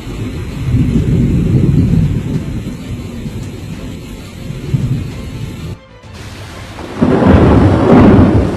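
Thunder rumbling in a heavy rainstorm, with rain hiss underneath. The sound cuts out briefly near six seconds, then a louder, sharper peal of thunder breaks about seven seconds in.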